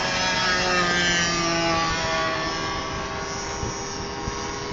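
DLE-20 20cc single-cylinder two-stroke petrol engine of a radio-controlled Cessna 182 model running in flight. Its pitch drops slightly over the first second or two, then holds steadier and a little quieter.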